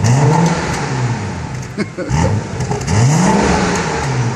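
BMW 435i's turbocharged inline-six engine and exhaust being revved in two throttle blips, the pitch rising and falling each time, the second about two seconds in.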